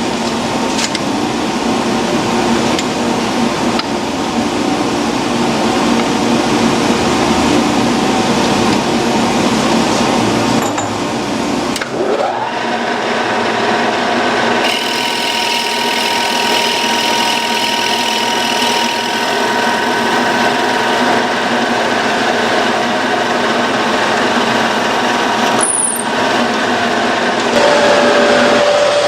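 A power tool running and working wood. About twelve seconds in, a motor spins up with a rising whine, then runs on at a steady pitch.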